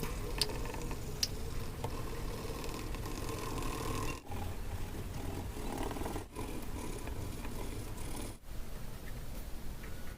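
Paper being rubbed and scraped in a continuous rasping texture, with two light ticks early in the clip; the sound drops out abruptly three times.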